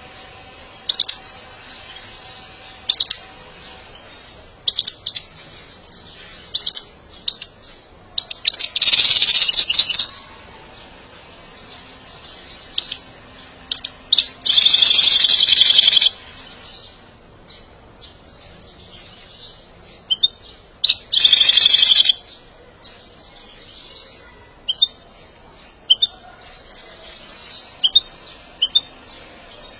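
European goldfinch singing its breeding-season song: scattered short high chirps, broken by three long, loud, rapid twittering phrases.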